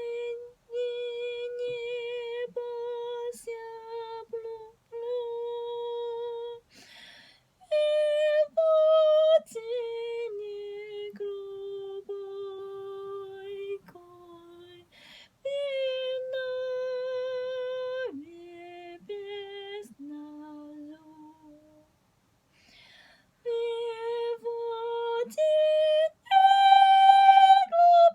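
A woman singing a slow wordless melody, humming-like, with long held notes, vibrato and audible breaths between phrases. There is a short silent pause about two-thirds of the way through, and the highest and loudest notes come near the end.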